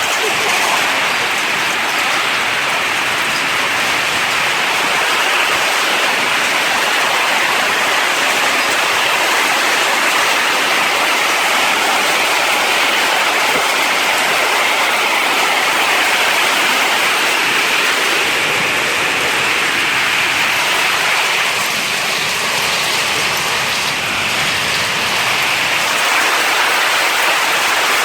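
Heavy rain pouring down steadily in a thunderstorm, a loud continuous hiss.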